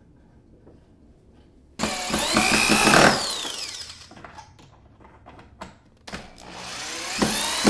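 Power drill driving screws into a wooden frame: two runs, the first starting about two seconds in and dying away after about a second, the second starting about six seconds in and building, with the motor's pitch sliding as it takes the load. A few small knocks fall between them.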